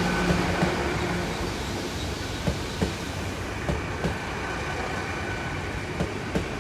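Great Western Railway Class 800 IET train moving along the platform, its wheels clicking over rail joints, often in pairs, over a steady hum and whine from the train.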